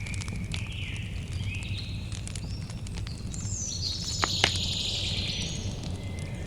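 Campfire crackling with scattered sharp pops over a steady low rumble, the two loudest pops a little past four seconds in. Bird chirps and calls sound throughout.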